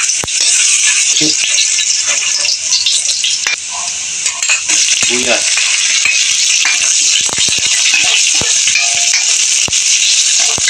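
Chopped garlic and sliced red onion sizzling in hot oil in a stainless steel wok, a steady frying hiss. A metal ladle clicks and scrapes against the wok as the onion is stirred, mostly in the second half.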